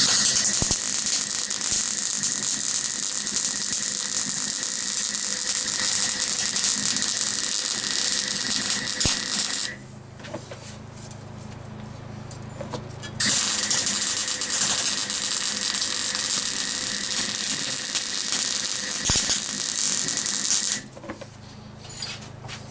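Gas-shielded MIG welder arcing on steel with a steady crackle, in two long runs of about ten and eight seconds. A generator powering it hums on underneath and is heard alone in the pause between the runs and after the second one.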